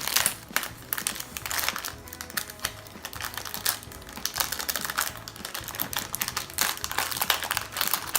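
Blind-bag wrapper being torn open and crinkled by hand: a dense run of irregular crackles and clicks.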